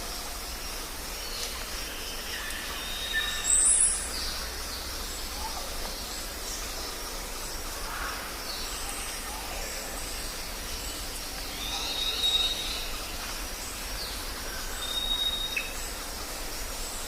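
Jungle ambience: many birds calling over a steady background hiss, with thin held whistles and short chirps, some falling in pitch. The loudest is one shrill, very high call about three and a half seconds in.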